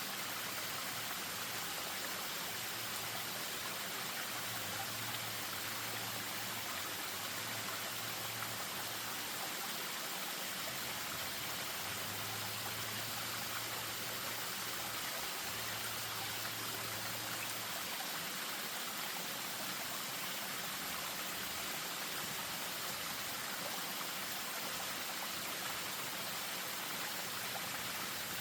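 Spring-fed stream and small waterfall running steadily: an even, unbroken rush of water. A faint low hum comes and goes during the first two-thirds.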